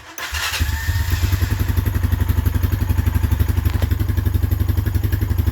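Freshly rebuilt 2004 Honda Foreman 450 ATV single-cylinder four-stroke engine on its first start. It picks up within the first second and settles into a steady idle with an even, rapid firing pulse, running cleanly after a new piston, cylinder and valve seals.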